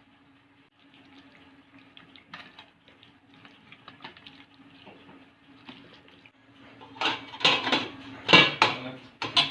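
Kitchen dishes and utensils clinking and clattering: light scattered clicks at first, then a louder cluster of knocks over the last couple of seconds, over a faint steady low hum.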